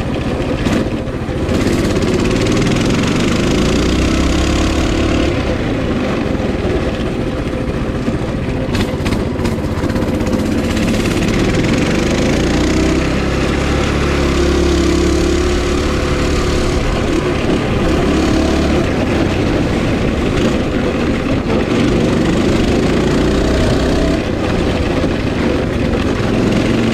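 Coleman 196cc mini bike's single-cylinder engine running under throttle while being ridden, its pitch rising and falling with the throttle, over a broad rushing noise. A few sharp clicks come about nine seconds in.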